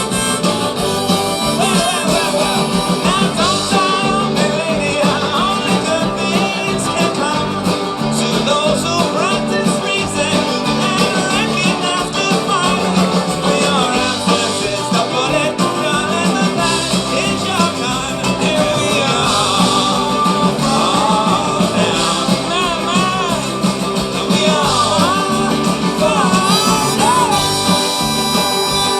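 Band music with harmonica and guitar over a steady accompaniment, with singing.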